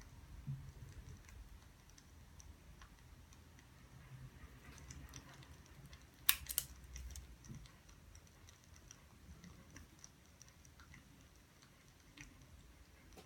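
Scattered light clicks and taps at uneven intervals, with a sharper double click about six seconds in, over a faint low rumble.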